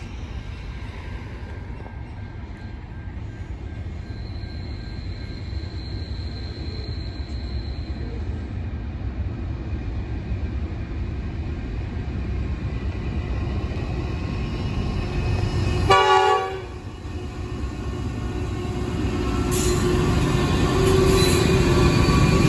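NR class diesel-electric locomotives hauling a freight train, their rumble growing steadily louder as the train approaches. About two-thirds of the way through the lead locomotive gives one short horn blast, and near the end the engines and the wagons running over the rails are loud as they pass close by.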